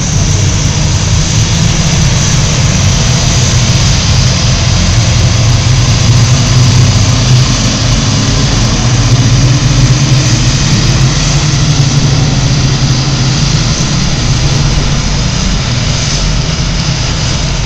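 Engine of a JCB TM310 tractor-pulling machine running hard and steady with a deep drone, getting louder toward the middle and easing off a little near the end.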